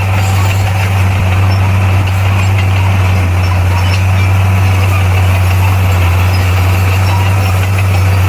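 Heavy diesel engine of earthmoving equipment running steadily, a loud, constant low drone with no change in speed.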